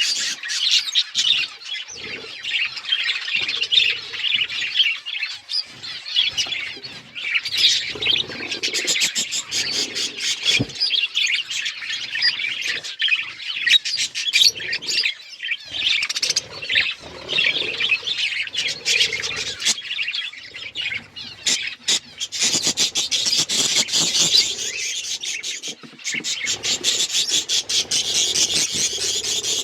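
A flock of budgies chirping and chattering continuously, a busy overlapping warble of quick chirps, clicks and squawks.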